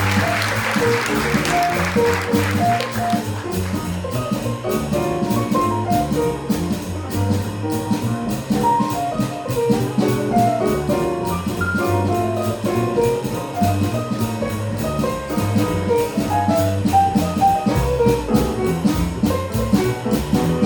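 Live jazz combo playing an instrumental passage: drum kit keeping a steady cymbal beat, bass walking underneath and a soloist playing short quick notes on top. A hissing wash at the start fades out about three seconds in.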